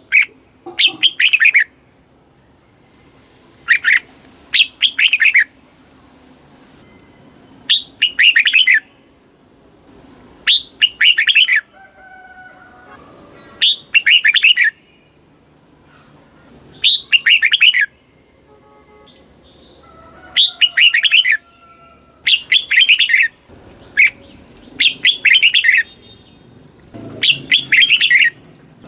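Red-whiskered bulbul singing: short, loud phrases of quick chirping notes, each about a second long, repeated every few seconds.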